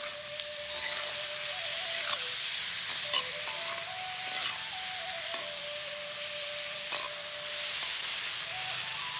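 Chicken pieces frying in hot mustard oil in an iron kadai, sizzling steadily, with a spatula scraping and stirring them around the pan.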